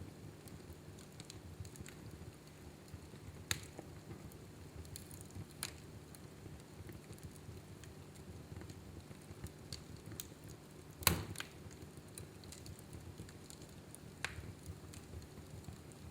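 Fire burning in a fireplace, crackling with scattered sharp pops, one louder pop about two thirds of the way through, over a low steady rumble.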